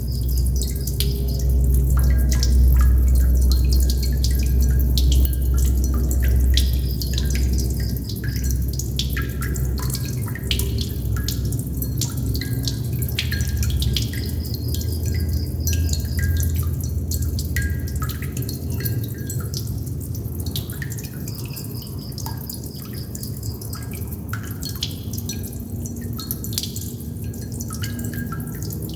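Water droplets dripping irregularly, several drops a second, over a deep low rumble that is strongest in the first half. A faint high trill comes and goes now and then.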